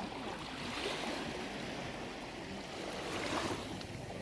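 Sea waves washing in, swelling and ebbing in surges a few seconds apart.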